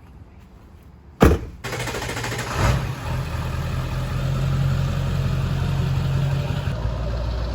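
A loud thump about a second in, then a truck's engine starting, with a brief rev, and settling into a steady idle.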